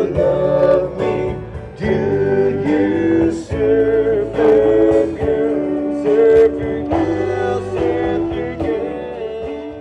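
A rock-and-roll band playing the closing bars of a song, guitars and held chords, tailing off near the end.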